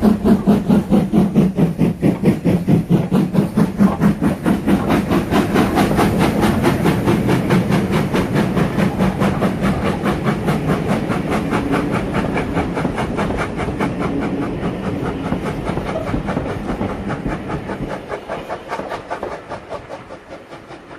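Ivatt Class 2MT steam locomotive working a train, with a fast, even beat of exhaust and wheels and a hiss of steam. It starts suddenly and fades over the last few seconds as the train draws away.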